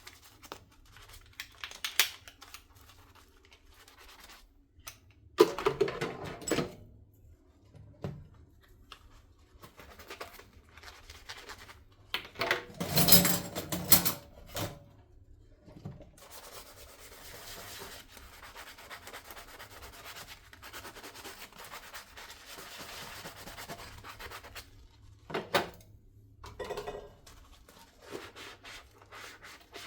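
Dishes being hand-washed at a sink: a sponge rubbing and scrubbing across dishes in short strokes, with occasional knocks of dishware. There is a louder clatter of scrubbing a little before halfway, and a longer stretch of steady scrubbing after it.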